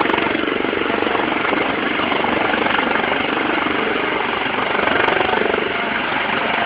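Helicopter running steadily, its rotor blades beating in a rapid, even chop over the engine and rotor noise.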